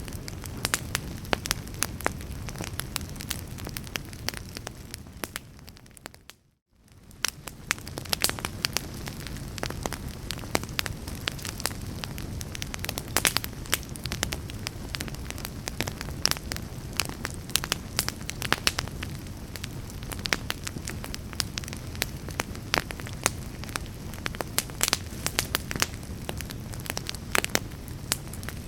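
Wood fire crackling and popping, with many sharp irregular pops over a steady low rush of flame. About five seconds in, the sound fades to a brief silence, then fades back in and carries on.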